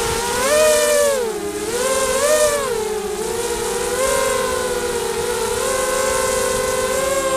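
Spedix 250 FPV racing quadcopter's brushless motors and Gemfan propellers whining in several close pitches that rise and fall together with the throttle. The pitch swings up and down twice in the first three seconds, then holds fairly steady.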